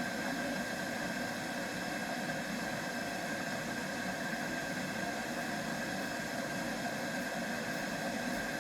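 Steady background hiss and hum with a faint, unchanging high tone running through it, with no distinct events.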